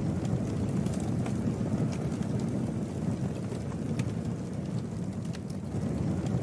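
Campfire burning: a steady low rush of flames with occasional sharp crackles and pops from the burning wood.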